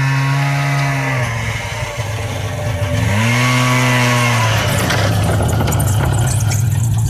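Small petrol engine revving up and easing off twice, then running steadily at a high, even speed.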